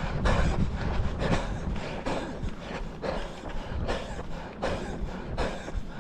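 A runner's footfalls and heavy breathing, in a steady rhythm of roughly one beat a second over a low rumble.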